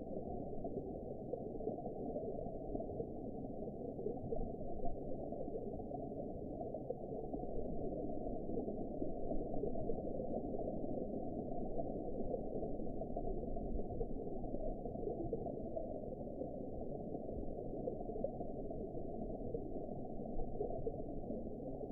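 Underwater ambience: a steady, muffled deep rush with a faint gurgle, nothing bright or high in it.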